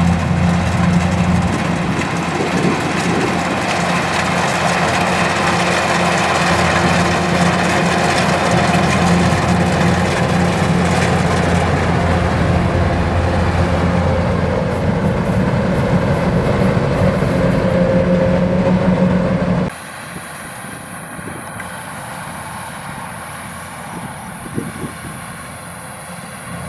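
Kubota DC105X rice combine harvester running steadily under load, a loud even engine drone. About three-quarters of the way through, the sound drops abruptly to a quieter, more distant machine drone with a steady high hiss.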